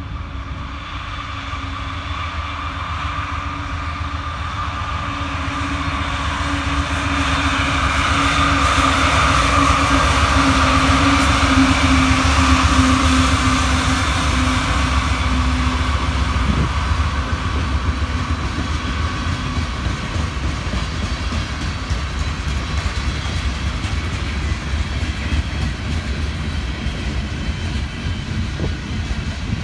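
A CSX freight train passing. The diesel locomotives' engines hum and grow louder to a peak about halfway through, then the gondola cars roll by with steady wheel noise on the rails.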